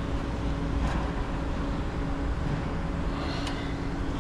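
A steady low mechanical hum with a faint held tone, and a couple of light ticks about a second in and again near the end.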